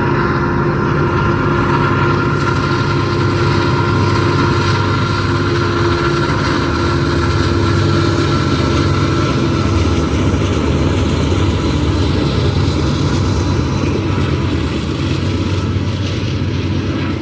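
Diesel-electric freight locomotives, EMD SD70-series and GE AC units, working hard under load up a steep grade: a heavy, steady engine rumble with a few held tones that fade about ten seconds in.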